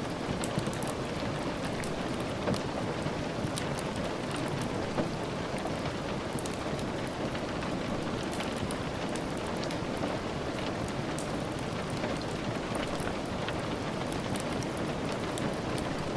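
Steady rain, an even hiss of falling drops, dotted with many small sharp ticks.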